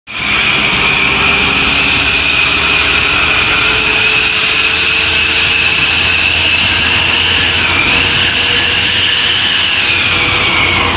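Truck's whistling aftermarket exhaust (knalpot SuozZ) giving a loud, high, steady whistle over the running engine. The whistle wavers slightly about eight seconds in and slides lower near the end.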